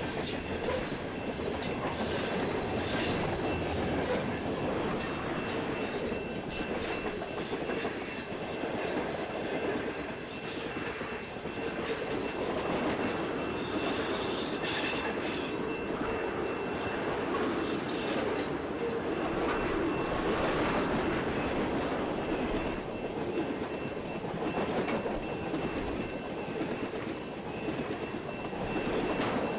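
Canadian Pacific mixed freight train's cars rolling past close by, with a continuous rumble and rapid irregular clicking of wheels over the rails. A thin, steady wheel squeal runs through it.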